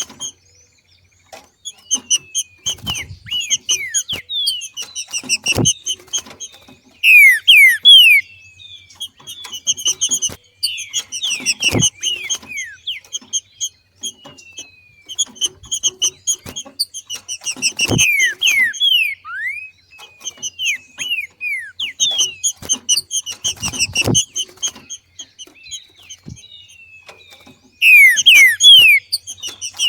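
Green-winged saltator (trinca-ferro) giving its 'macheado' call: repeated bursts of quick, high chattering notes mixed with louder falling whistles, with a few sharp knocks in between.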